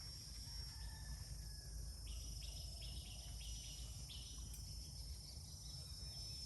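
Rural outdoor ambience: a steady high-pitched insect drone over a low rumble, with a quick run of short chirps from about two to four and a half seconds in.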